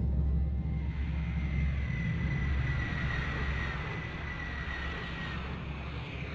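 Train rumbling and slowly fading, with a thin high squeal from about a second in until past five seconds, falling slightly in pitch.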